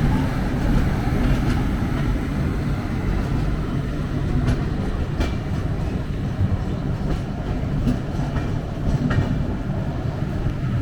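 Running noise of an Indian Railways express passenger train, heard from on board: a steady low rumble of wheels on rail, with scattered sharp clicks of the wheels over rail joints.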